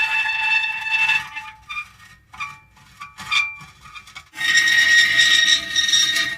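Metal creaking: a drawn-out high squealing creak that breaks off after about a second into a few short squeaks, then starts again loud and sustained a little past four seconds in.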